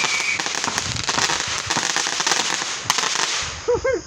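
Fireworks crackling in a dense, rapid run of pops that thins out about three seconds in. A short wavering voice-like sound follows near the end.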